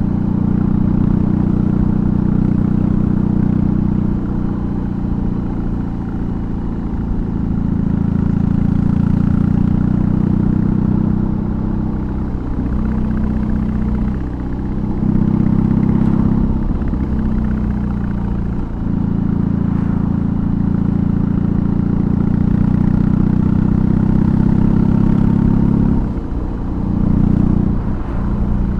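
BMW R18's 1802 cc boxer twin running through its aftermarket exhaust while riding. The engine note is steady at first, then dips briefly and picks up again several times in the second half.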